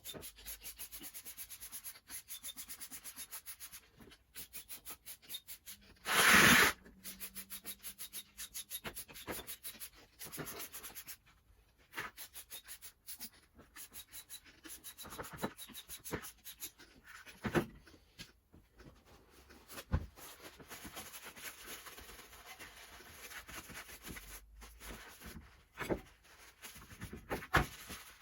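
Fast back-and-forth abrasive strokes, several a second, of hand sanding or scrubbing on a part, stopping and starting in short runs. A louder short rush of noise breaks in about six seconds in.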